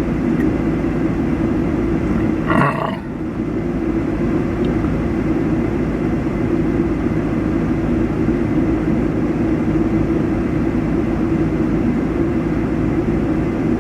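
Engine running in a steady low drone. About three seconds in there is a brief higher-pitched sound over it.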